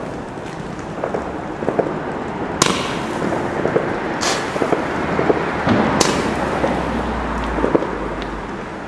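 Fireworks going off, with a steady crackling hiss and three sharp bangs, evenly spaced a bit under two seconds apart.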